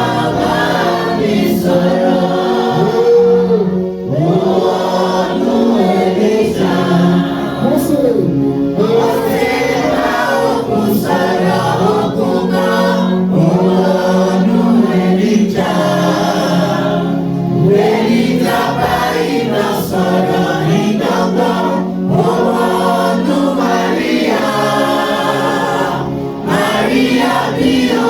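Congregation and choir singing a gospel song together over steady musical accompaniment.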